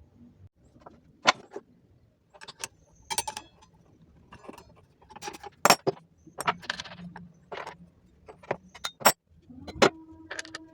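Repeated sharp metallic clicks and clinks of small metal parts being handled, such as a saw blade, reducer rings and arbor hardware being fitted. A steady, even hum starts near the end.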